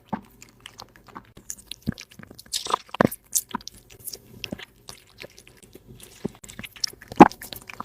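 A cat chewing and crunching food in irregular bites, the loudest crunches about three seconds in and near the end.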